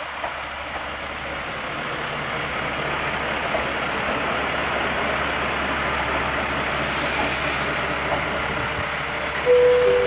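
Tarumi Railway Haimo 295-510 diesel railcar pulling into the station, its running noise growing louder. About two-thirds of the way in, a high-pitched squeal sets in as it slows to a stop.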